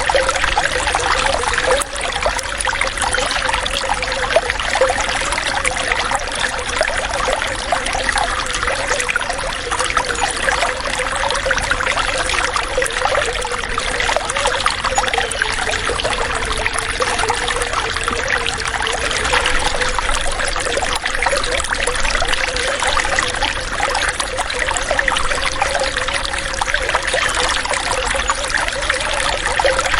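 Water running and trickling steadily, a dense, even babble of small splashes like a stream or flowing water.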